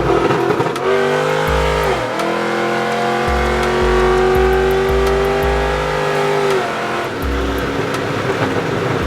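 Car engine being revved hard: the pitch climbs, dips briefly, then is held high for several seconds before dropping off. A bass-heavy music beat plays underneath.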